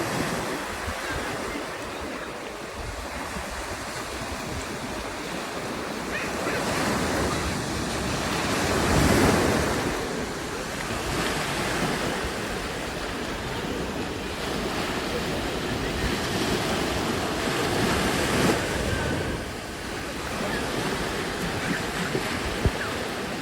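Ocean surf breaking and washing up a beach in a steady rush that swells with each wave, loudest about nine seconds in and again near eighteen seconds, with wind buffeting the microphone. A short knock sounds near the end.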